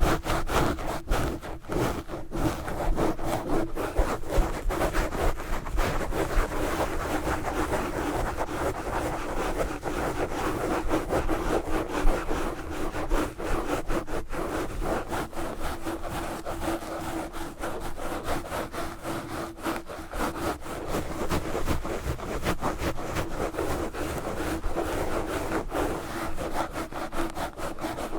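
Knitted wool gloves scratching fast and hard directly on a microphone, a continuous dense rasping scrub of rapid strokes.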